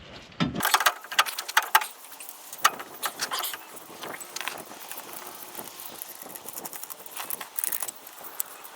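Irregular metallic clinks, taps and rattles, the sound of hand tools and suspension parts being handled during front-end work on a pickup truck. They come thickest in the first few seconds, with another cluster near the end.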